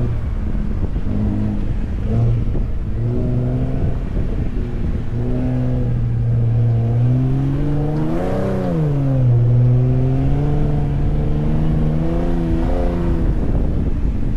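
Ford F-150 Raptor's engine driving on sand dunes, its revs shifting up and down with the throttle, with a quick rise and drop about eight seconds in. A low rumble runs underneath.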